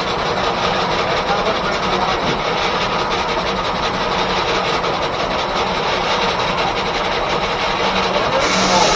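Steam engine belted to an 1880s R.R. Howell left-hand sawmill, running steadily with a rapid, even mechanical beat.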